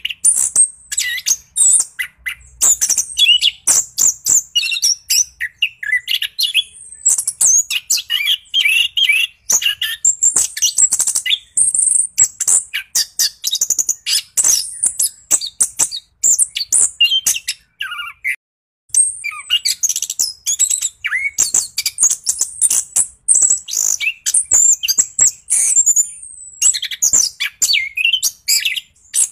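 Orange-headed thrush (anis kembang) singing a fast, continuous rolling song of varied chirps and whistles, with a brief pause about eighteen seconds in.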